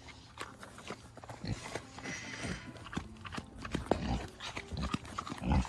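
A farm animal eating food it has just been handed: irregular crunching clicks and knocks with a few low thumps.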